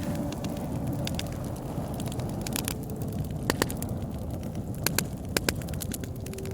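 Wood fire burning with a steady low rush, with sharp crackles and pops scattered through, several coming in quick pairs.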